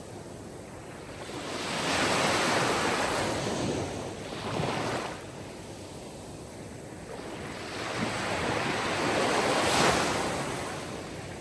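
Sea waves washing onto a shore. Two waves swell up and fade away, one about two seconds in and one near the end.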